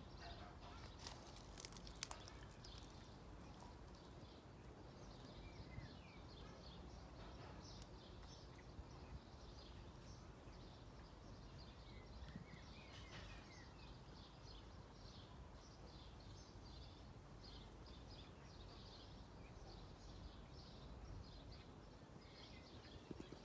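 Faint birdsong: many short, high chirps and twitters throughout, over a steady low background hiss, with a few sharp clicks about one to two seconds in.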